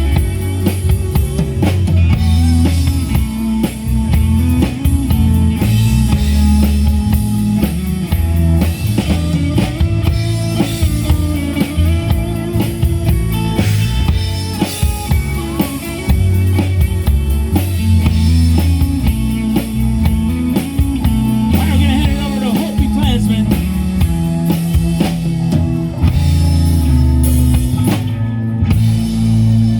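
Live rock band playing with drum kit, guitars and bass, and no sung words. About two-thirds of the way through, a guitar line bends in pitch.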